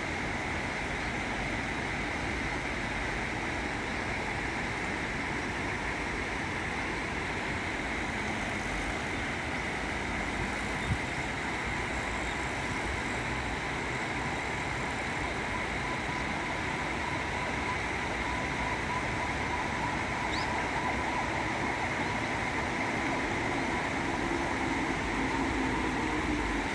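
Stream water flowing steadily, an even rushing hiss with a single brief click about eleven seconds in.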